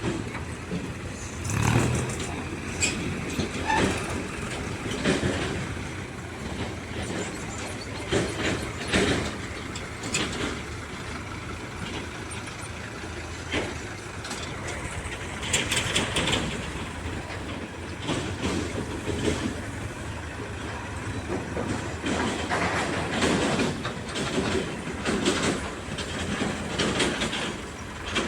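A backhoe loader's diesel engine running under load, with irregular metallic clanks and knocks from the working machine.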